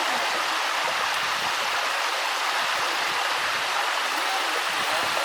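Mountain stream water flowing in a steady, even rush.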